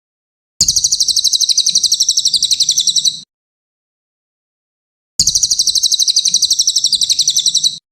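Brown cililin song in a masteran recording: two bursts of a fast, high trill of rapidly repeated notes, each about two and a half seconds long and separated by a silent gap of about two seconds. The bursts start and stop abruptly and look alike.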